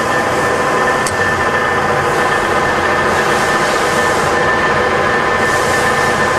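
Cincinnati No. 12 rise-and-fall milling machine running through its automatic cycle: a steady mechanical hum with a high whine over it, and one sharp click about a second in.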